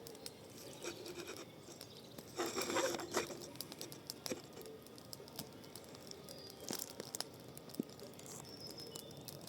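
Fire of bush trimmings and wood crackling in a fire bowl, with scattered sharp pops and a brief louder burst of noise about two and a half seconds in.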